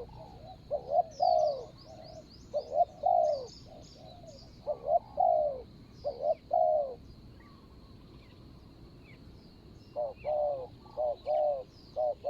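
Spotted doves cooing in repeated phrases of short, falling notes. The cooing pauses about seven seconds in and starts again about ten seconds in. Small birds chirp faintly and high-pitched in the background.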